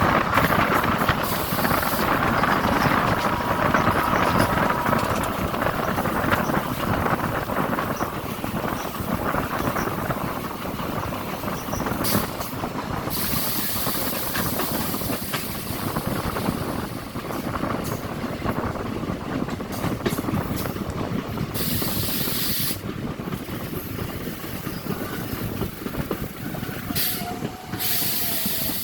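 DEMU passenger train running on the rails, a steady rumbling rattle that slowly grows quieter, with a brief thin squeal a few seconds in.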